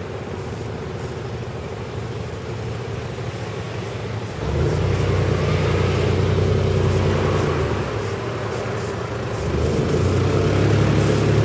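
Road vehicle engines pulling away over the crossing. A low rumble comes first, then a louder engine sets in about four seconds in and rises in pitch as it accelerates; a second vehicle's engine swells near the end.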